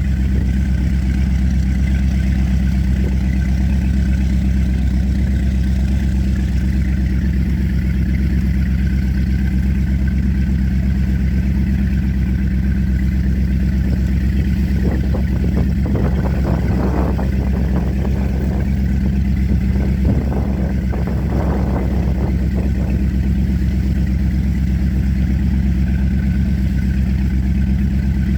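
Four Winns Liberator powerboat's inboard engine running steadily at low revs. Between about 15 and 22 seconds in, a rushing, crackling noise rises over it.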